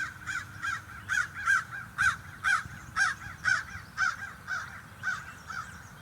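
A crow cawing in a long, rapid series of short caws, about two to three a second, loudest in the middle and fading away near the end.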